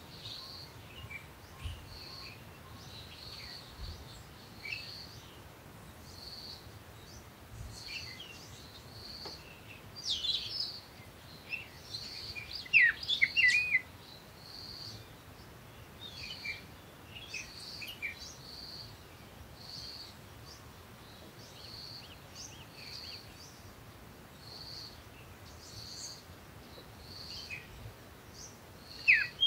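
Songbirds chirping. One bird repeats a short high note about once a second, and louder warbling phrases come around ten to fourteen seconds in and again near the end.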